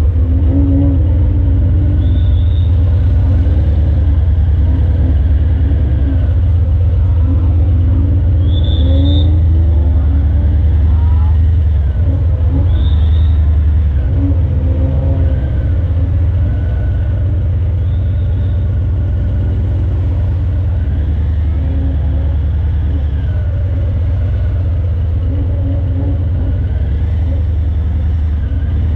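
Harley-Davidson Breakout 117's Milwaukee-Eight 117 V-twin, through a Vance & Hines Eliminator 300 slip-on exhaust, rumbling at low speed, its revs rising and falling with the throttle. A little quieter from about two-thirds through.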